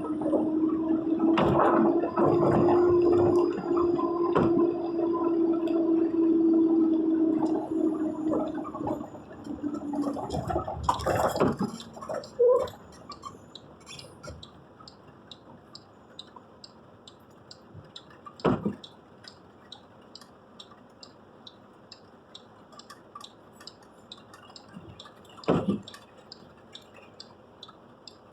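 Heavy rain and splashing water, loud with a steady hum for about the first ten seconds, then dropping away to quiet dripping with regular light ticks, broken twice by a short thump.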